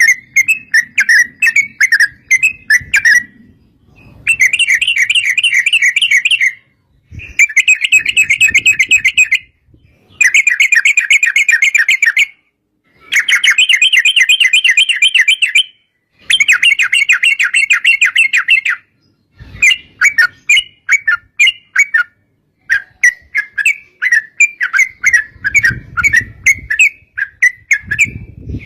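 Yellow-vented bulbul (trucuk) singing its long rapid trilled 'ropel' song: a run of fast rolling phrases of two to three seconds each, broken by short pauses. It turns to choppier, separate chattering notes over the last several seconds.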